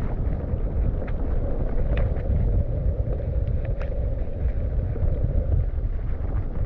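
Wind buffeting the microphone over the rumble of a mountain bike running down a dirt trail, with a few sharp clicks and rattles from the bike.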